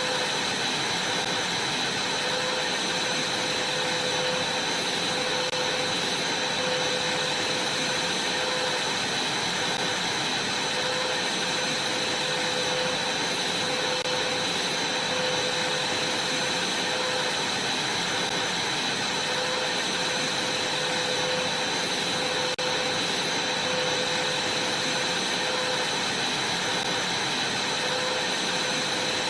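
Vacuum cleaner running steadily while vacuuming a trampoline, a constant rush of air with a high steady whine over it.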